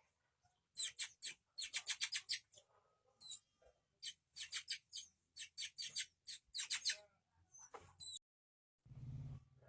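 Oriental magpie-robin chicks begging to be fed: runs of short, rapid, high-pitched squeaky calls in two main bouts, with a brief low rumble near the end.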